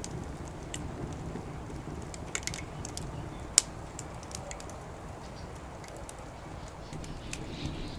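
Campfire in a fire pit crackling, with scattered sharp pops and one loud pop about three and a half seconds in, over a low steady background rumble.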